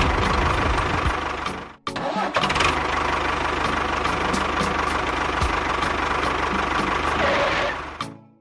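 An engine running steadily with a low hum and a dense rattling noise. It cuts out abruptly for a moment about two seconds in, picks up again, and fades away near the end.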